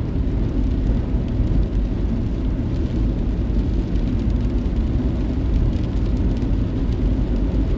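Steady road and engine noise of a moving car, heard from inside the cabin as a constant low rumble.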